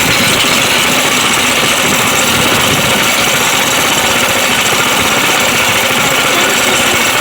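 Dirt bike engine running steadily with a fast, even rattle.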